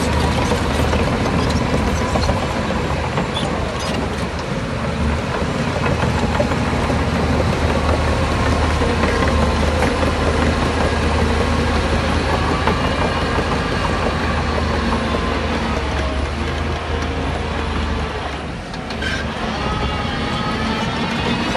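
Heavy diesel earthmoving machinery running steadily with a low, even engine drone; the engine note dips briefly and then glides upward near the end.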